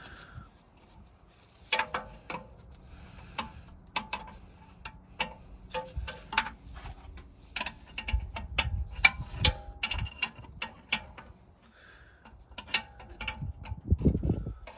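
Irregular metallic clicks and clinks of hand tools and metal parts being handled while working on an old engine's oil-pipe fittings, with a few dull knocks.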